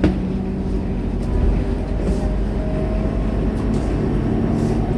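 Scania K230UB city bus's diesel engine running under way, a steady low drone with a faint whine above it.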